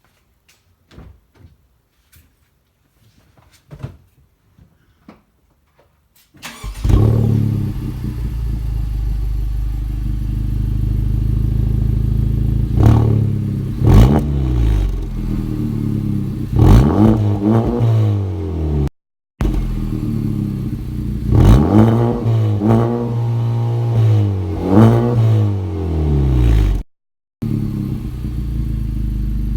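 A 2017 Honda Civic Type R FK8 with a Thermal R&D cat-back exhaust, started warm about six seconds in after a few faint knocks. Its 2.0-litre turbocharged four-cylinder idles, then is revved in a series of short blips, first to about 2000 rpm and then to about 3500 rpm, each rising and falling back to idle.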